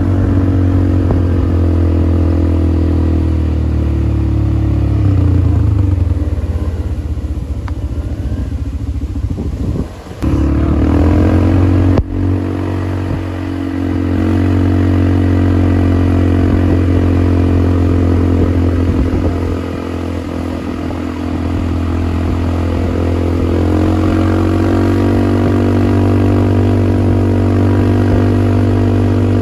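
ATV engine running, its pitch shifting up and down with the throttle. It drops away briefly about ten seconds in, then picks up again, with a sharp knock just after.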